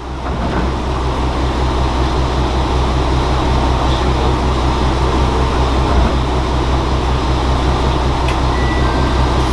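Diesel railcar running, heard from inside the cab: a steady low engine drone with rail running noise, growing louder within the first second.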